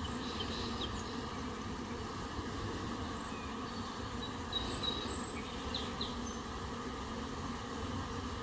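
Honeybees buzzing at the hive: a steady, even hum, with a few brief high chirps over it.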